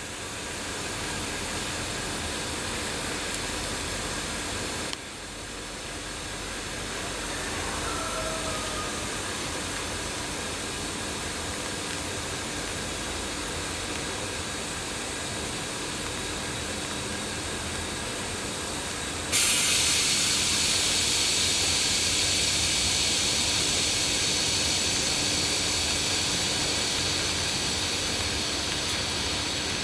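Railway train with a steady hiss. About two-thirds of the way through, a louder, higher hiss sets in suddenly and holds.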